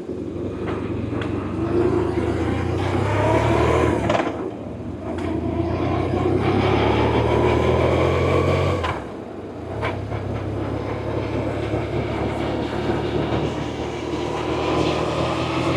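BMW R1100RT boxer-twin engine under way, rising in pitch twice as it accelerates, with a brief drop about four and nine seconds in at each gear change, then running steady at cruise, with wind rush.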